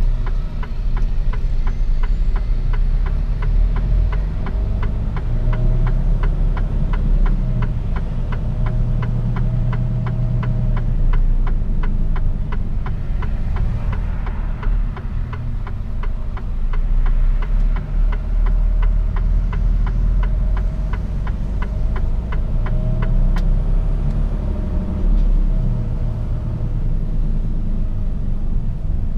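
Mercedes-Benz Actros truck's diesel engine and road noise heard from inside the cab, a steady low rumble, with a regular fast ticking over it for most of the stretch.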